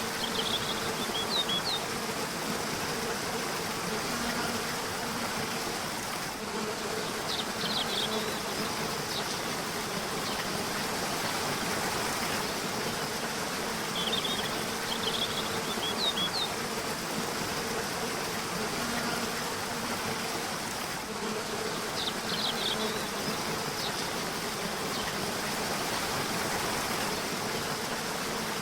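Rushing river water, a steady hiss, with a small bird's short high chirping phrases recurring about every seven seconds, over a faint low hum.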